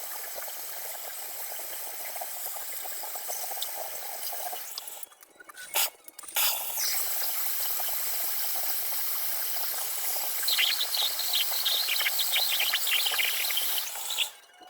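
Water running steadily, stopping about five seconds in, then running again more strongly, with a crackling spatter from about ten seconds in until it cuts off just before the end.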